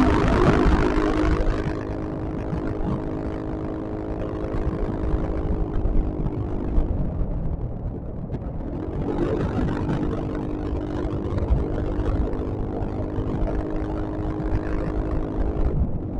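Yamaha XMAX scooter's single-cylinder engine running at a steady cruise with wind noise, easing off about seven seconds in and picking up again a couple of seconds later, then dipping and rising once more near the end.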